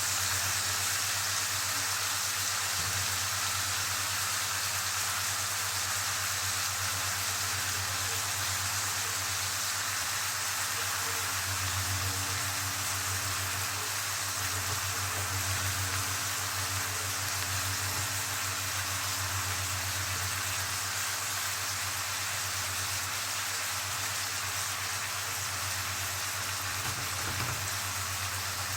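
Mixed seafood frying in hot oil in a pan: a steady, even sizzle.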